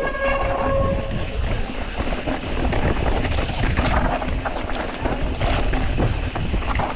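Mountain bike descending a rocky trail at speed: wind rushing over the helmet camera's microphone, tyres running on dirt and rock, and the bike rattling with frequent small knocks. A brief steady squeal sounds in the first second.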